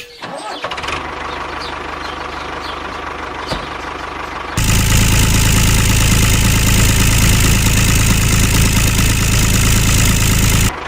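A small engine running steadily; about four and a half seconds in it becomes much louder and stays level, then cuts off abruptly just before the end.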